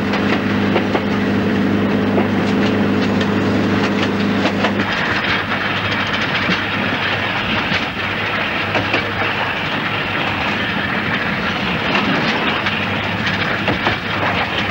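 A train running along the line. A steady low hum is heard for about the first five seconds, then the rushing rumble of wheels on track with the clicks of rail joints.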